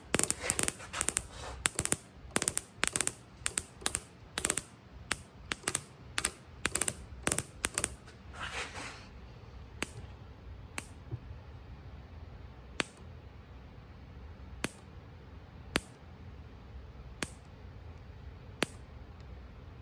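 Sharp snapping clicks of ignition sparks as the breaker points in a distributor are opened and closed, each spark firing as the points gap breaks. Several a second at first, then slowing to about one a second, with a short hiss just after eight seconds.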